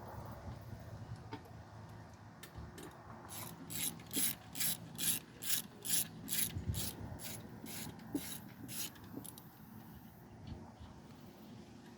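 Ratchet wrench being worked in quick back-and-forth strokes, a burst of clicking about three times a second for several seconds, loudest in the middle of the run.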